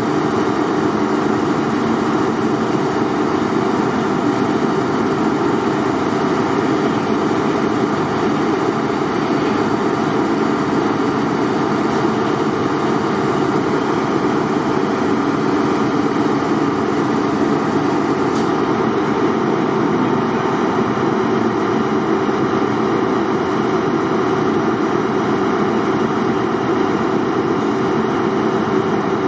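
Heritage diesel locomotive engine running at a steady speed, a constant drone that does not rise or fall.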